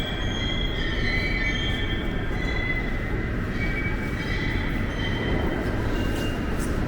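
Subway train running on the rails: a steady heavy rumble with high wheel squeal that comes and goes.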